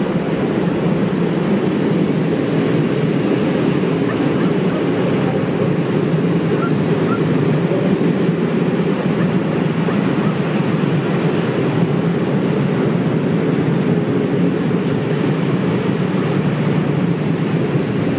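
Loaded freight train of open wagons carrying crushed stone rolling past, a steady loud rumble of steel wheels on the rails.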